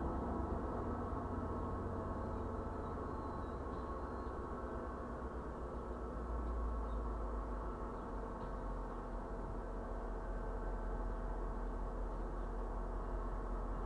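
Low, steady rumble and hum of an MBTA commuter train drawing to a stop at the station and then standing there.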